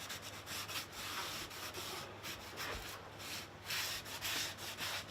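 Scrubbing along the edge of a boat fridge door by hand, in quick, uneven rubbing strokes.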